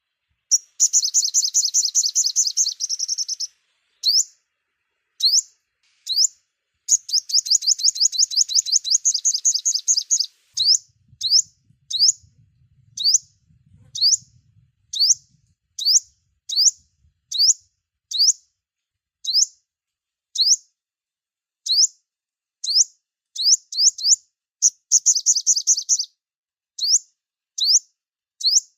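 Small songbird, a 'chim 5 màu', calling as a lure recording: high, short, rising chirps about once a second, broken by fast trilled runs of chirps near the start, from about 7 to 10 seconds in, and again near the end.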